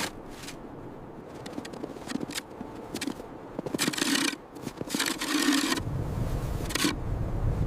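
Repeated scraping and rubbing noises in short bursts of under a second each, with scattered clicks and a low rumble joining about six seconds in.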